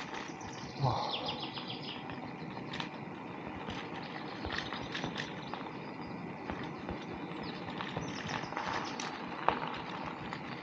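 Bicycle being ridden over a rough path: a steady rolling noise with frequent small clicks and rattles, a louder knock about a second in and a sharp click near the end.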